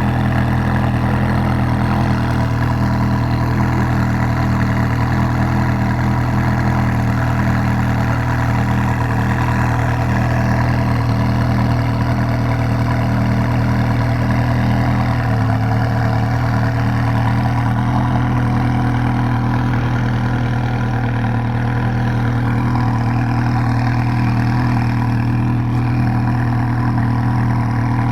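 Ferrari 360 Challenge Stradale's 3.6-litre V8 idling steadily, its pitch holding even with no revs.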